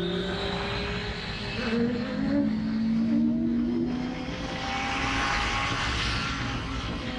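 Suzuki GSX-R sportbike's inline-four engine running at steady revs. Its pitch dips slightly about two seconds in, and wind rush on the camera grows louder in the second half.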